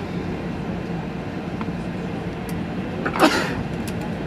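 Steady cabin hum inside an Airbus A380 airliner with its engines running after landing. A single short, loud burst of noise cuts through it about three seconds in.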